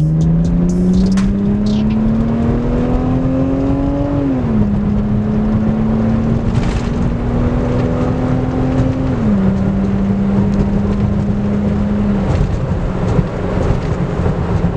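Lexus IS300's 2JZ-GE inline-six accelerating hard through the gears, exhaust running through a newly fitted Y-pipe. The engine note climbs steadily, drops at two upshifts about four and nine seconds in, then eases off over road and wind noise near the end.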